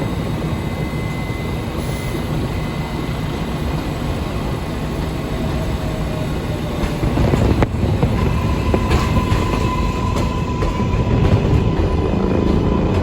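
R188 subway train running, a steady rumble with wheel clatter. A sharp clack comes about seven and a half seconds in, and from then on a steady high whine or squeal rises over the rumble.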